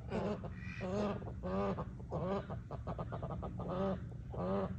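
Waterfowl calling: a run of short honking calls, about two a second, with a quick rattle of short notes about halfway through.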